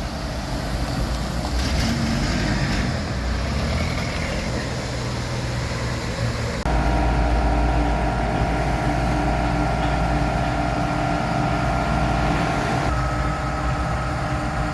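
Jeep Wrangler TJ engine idling, running on a newly fitted engine and fuel pump. About seven seconds in, the sound changes abruptly to a steadier idle with a steady whine above it.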